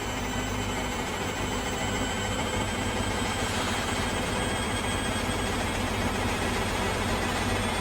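Hoover Dynamic washing machine spinning with an unbalanced load: a heavy low rumble with the motor's whine slowly rising as the drum picks up speed. The recording is layered with pitch-shifted copies in the G-Major effects style, giving several stacked tones.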